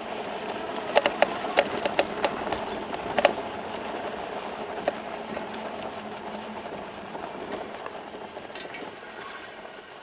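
Small camera drone's propellers buzzing steadily at a high pitch, fading gradually as it moves away, with scattered sharp clicks and knocks in the first half.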